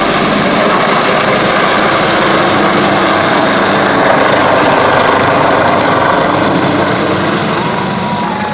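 Medevac helicopter flying past, its rotor and turbine noise loud and steady, swelling to a peak about four seconds in and then starting to fade.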